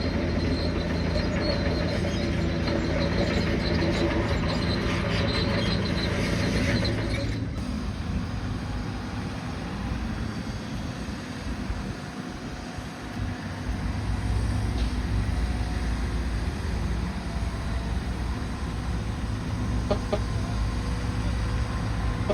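Bulldozer diesel engine running steadily. About seven seconds in, the sound cuts abruptly to a quieter, lower engine drone.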